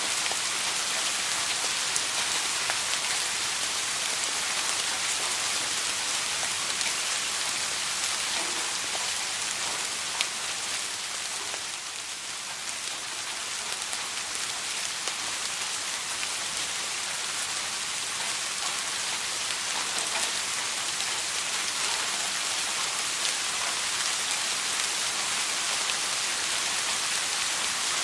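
Steady rain falling: a dense, even hiss of drops with scattered sharper drop ticks. It eases slightly for a moment about twelve seconds in.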